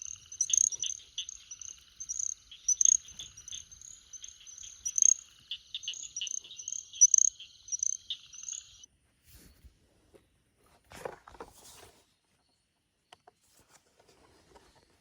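Night chorus of spring peepers: many overlapping high peeps, a couple a second, over a steady high trill. It cuts off abruptly about nine seconds in, leaving faint rustling.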